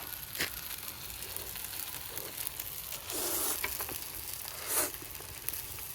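Yakisoba sizzling in a pan over a campfire: a steady frying hiss, with a couple of short, louder rushes of noise about three and nearly five seconds in.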